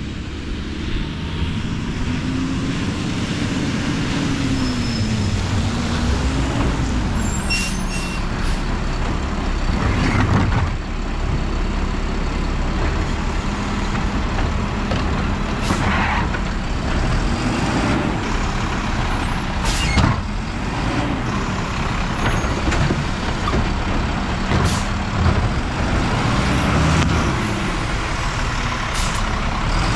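Mack LR garbage truck's engine running, its pitch rising and falling as it revs, with several short sharp hisses or clanks, about five in all, typical of the air brakes.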